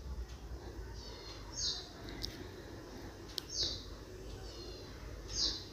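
A bird chirping faintly in the background: short, high chirps that drop in pitch, about one every two seconds, with a couple of soft clicks in between.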